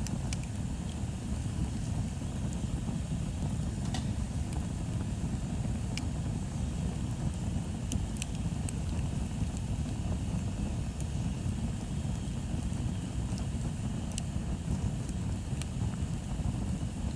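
Bonfire burning: a steady low rumble with scattered sharp crackles and pops, about ten of them.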